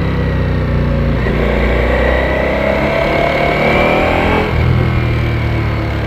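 Ducati Panigale V4S's V4 engine pulling hard under acceleration, its pitch climbing for about three seconds from a second in, then dropping at a gear change past four seconds.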